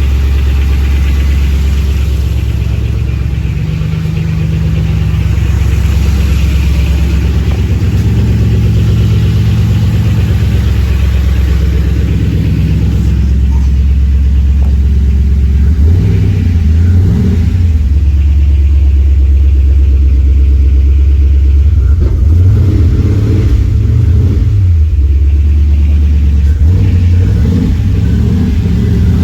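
1973 Chevrolet K20 pickup's engine running while warming up after decades without starting, with its revs brought up and down about three times in the second half.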